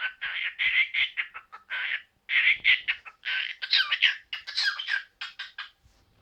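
Pet parrot chattering and squawking in a rapid run of short calls, some gliding in pitch, that stops shortly before six seconds in.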